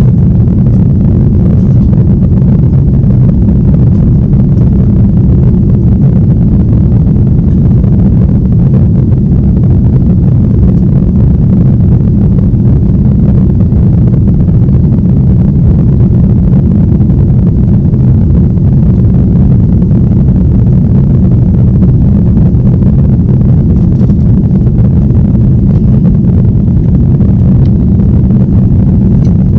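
Jet airliner cabin noise: a loud, steady low rumble of engines and airflow.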